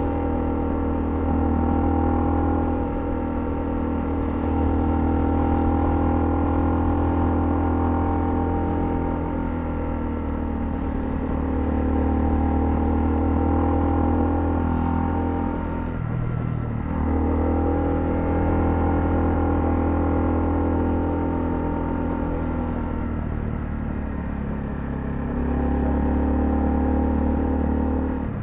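Honda CL250 motorcycle engine running steadily under way. The engine note drops and breaks off briefly about halfway through, then picks up again.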